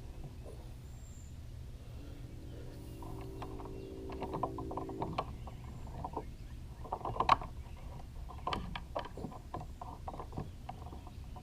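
Fishing reel being cranked: a steady whir for a few seconds, then a run of irregular clicks and knocks, the loudest about seven seconds in.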